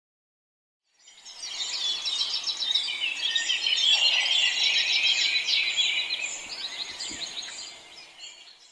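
Many small birds chirping together in a dense chorus, fading in about a second in and fading out near the end.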